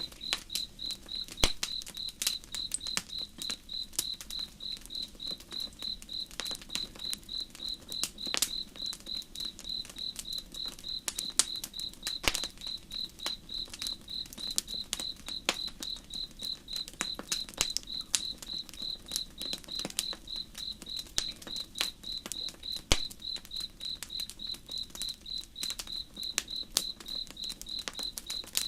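Campfire crackling, with sharp pops scattered irregularly, over a cricket chirping steadily in one high tone about two or three times a second.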